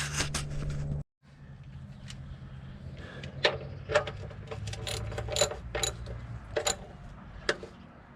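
Sharp metallic clicks and clinks of a wrench tightening an oil-pan drain plug, unevenly spaced, a few a second. A sudden break in the sound comes about a second in.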